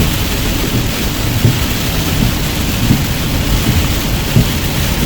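Heavy rain on a car during a storm: a dense, steady hiss with a deep rumble and a few short thumps. The sound cuts off abruptly at the very end.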